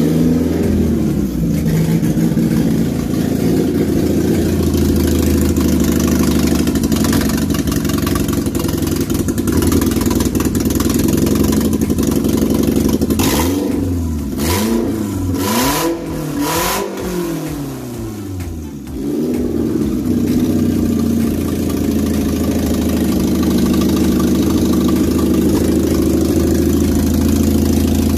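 Toyota 3SZ 1.5-litre DOHC four-cylinder engine running on its first start after being swapped into a VW bus. It idles steadily, is blipped up and down several times in quick succession about halfway through, then settles back to a steady idle.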